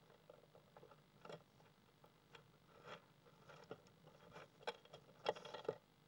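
European pied flycatcher moving about inside a birdhouse: irregular light taps and scratches, becoming more frequent, with the loudest cluster near the end.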